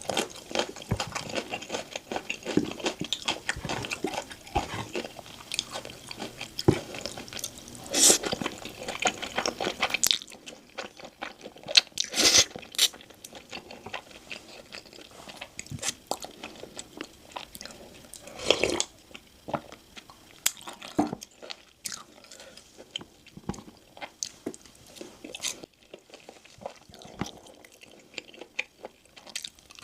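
Close-miked eating of crispy sweet-glazed Korean fried chicken (dakgangjeong). There is dense crackling crunching for about the first ten seconds, then slower, quieter chewing broken by a few loud crunchy bites.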